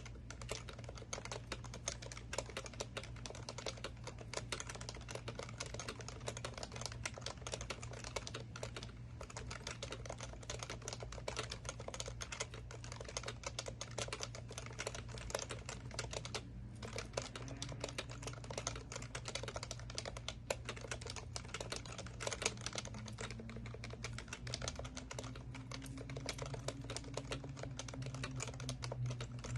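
Typing on an HHKB Professional Classic keyboard with Topre switches: a fast, continuous stream of keystrokes, with two short pauses about nine and sixteen seconds in.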